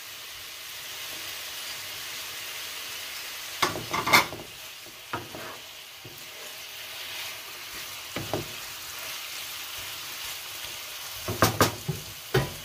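Cubed beef and sliced garlic sizzling in olive oil in a nonstick frying pan over medium heat. A wooden spoon stirs and knocks against the pan now and then, loudest about four seconds in and again near the end.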